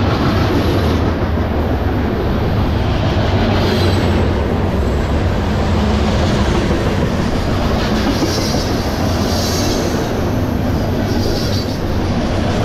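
CSX freight train rolling past at close range: a long string of open-top trash cars going by, with a steady rumble of steel wheels on the rails.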